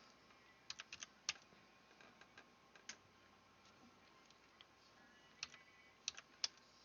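Faint, sparse keystrokes on a computer keyboard, in small clusters of clicks with quiet in between.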